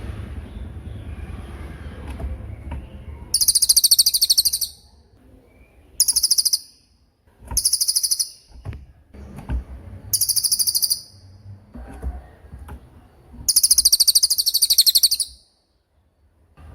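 Cililin bird's rapid-fire 'tembakan' call: five bursts of a very fast, high-pitched trill, each about one to one and a half seconds long, with short pauses between them. A faint low rumble and a few soft clicks sit underneath.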